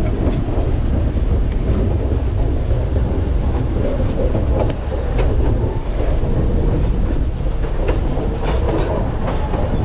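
Durango and Silverton narrow-gauge train running: a steady low rumble with scattered clicks and clatter of wheels on the rails.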